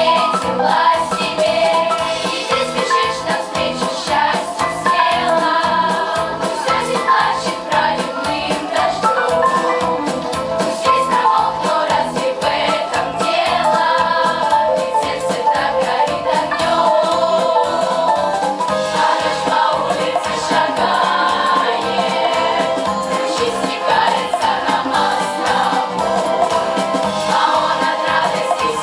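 Children's choir singing a song to a musical accompaniment with a steady beat.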